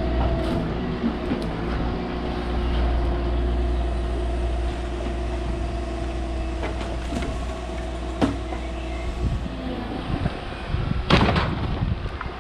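Volvo ECR 145 DL excavator running steadily, a low engine drone with a steady whining tone on top. A few sharp knocks come in the second half, and a louder clatter comes near the end.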